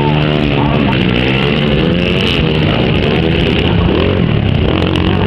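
Motocross bike engines revving, their pitch repeatedly rising and falling.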